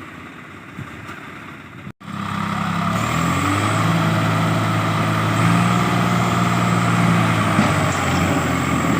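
Tractor diesel engine running steadily. About two seconds in, the sound breaks off for a moment and comes back much louder, then rises slightly in pitch and holds.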